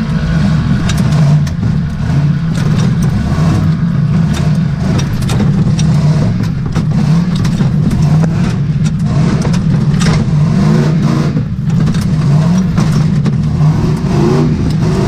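Range Rover V8 engine of an off-road competition 4x4 running under load, heard from inside the cab, with frequent sharp knocks and rattles. The revs rise briefly a few times in the last few seconds.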